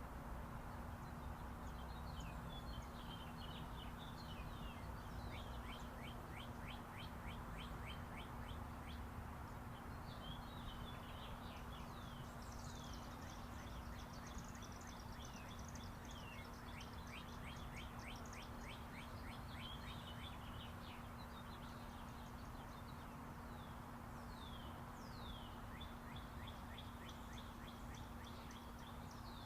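Several small birds chirping and trilling in quick, rapid series, over the steady wash of distant interstate highway traffic.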